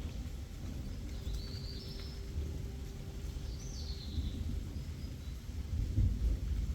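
A low outdoor rumble that swells about six seconds in as distant thunder rolls, with a bird calling twice in the first half.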